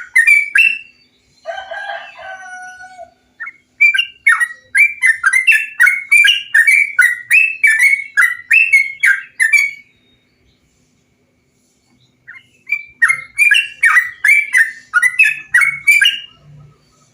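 Yellow-vented bulbul (trucukan) singing: quick runs of bubbly, chattering notes at about two to three a second. A lower, rougher call comes about two seconds in, and the song pauses for a couple of seconds about ten seconds in before a second run.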